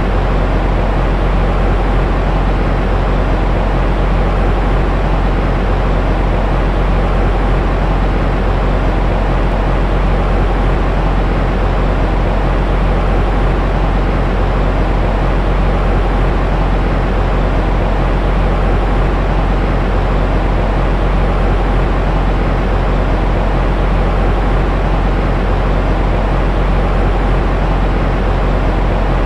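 Steady, unchanging white noise for baby sleep, weighted toward the low end so it has a deep rumble and little hiss at the top.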